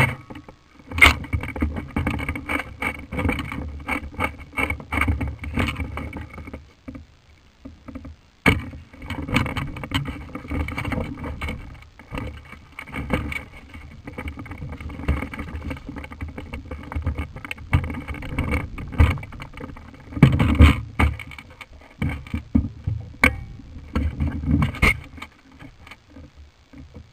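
Movement and handling noise: irregular rustling and scuffing with a low rumble and scattered sharp clicks, fading out near the end.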